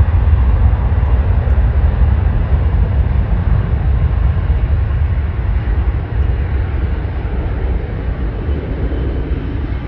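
Jet airliner engines producing a deep, steady rumble that slowly gets quieter over the last few seconds.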